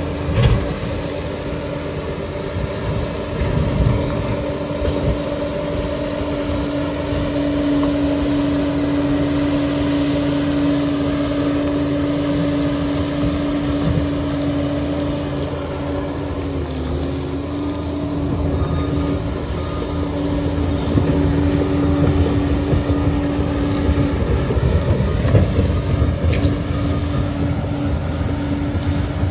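Liebherr PR 746 crawler dozer at work: its engine drones steadily with a constant whine, with irregular knocks and clatter on top. The tone dips briefly a little past the middle.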